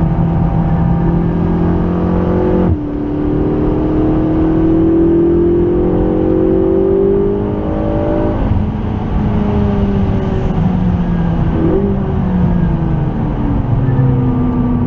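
McLaren 650S's twin-turbo V8 pulling hard with rising pitch, a quick upshift about three seconds in, then climbing again. Near the middle the driver lifts off and the engine note falls away as the car slows.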